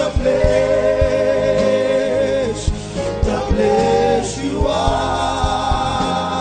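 Gospel worship music: voices holding long sung notes over a steady low drum beat.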